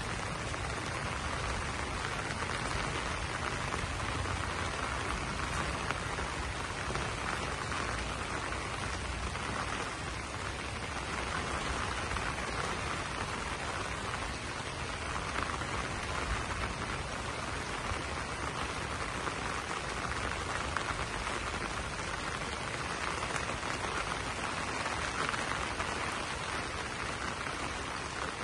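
Steady rain falling on banana leaves: a dense, even patter of drops.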